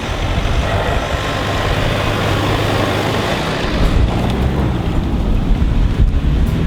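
Four-wheel-drive vehicle driving along, with a steady mix of engine rumble and rushing tyre and wind noise.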